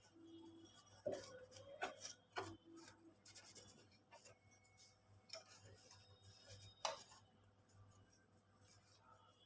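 Faint scattered clicks and light rubbing from hands working on the parts of a switched-off computerized embroidery machine during cleaning, with one sharper click about seven seconds in.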